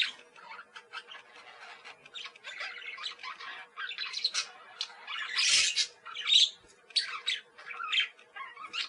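Parakeets chattering: a rapid, uneven run of short chirps and squawks, with a louder, harsher squawk about halfway through. A faint steady hum sits underneath.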